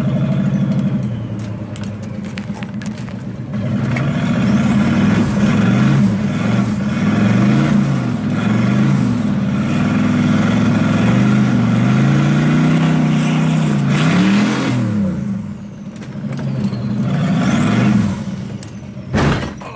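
Turbocharged 350 Chevy small-block V8 revving up and down repeatedly under throttle as the car drives in snow, heard from inside the cabin; it eases off briefly about three quarters of the way through and again near the end.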